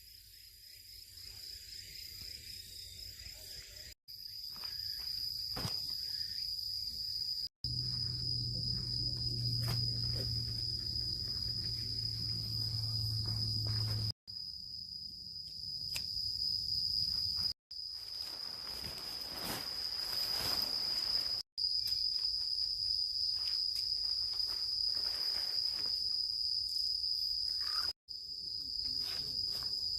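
Singing insects giving a steady, high-pitched trill. A low hum runs underneath for several seconds in the middle.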